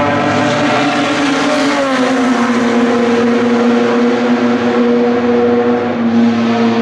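Racing car engine running at high revs; its pitch falls about two seconds in, then holds steady.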